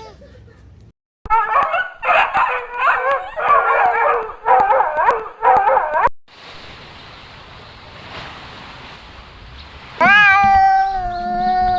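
Cats meowing, several overlapping wavering calls in quick succession for about five seconds. Then comes a steady hiss, and near the end a long animal call held at one pitch.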